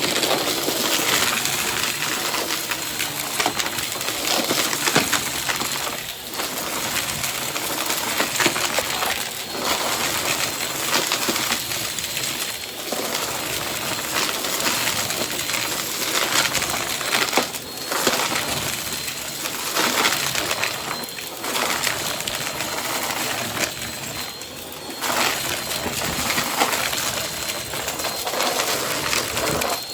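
Vacuum cleaner running continuously while being pushed quickly back and forth, its level rising and falling every few seconds.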